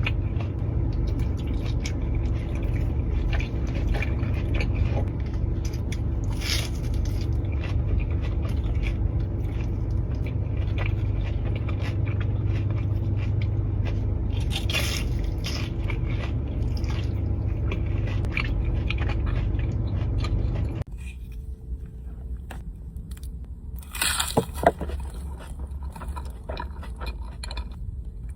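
Close-miked eating sounds: biting and chewing food with scraping, crunchy clicks over a steady low hum. About two-thirds of the way through, the hum cuts off, and a quieter stretch follows with a couple of sharp crunchy bites.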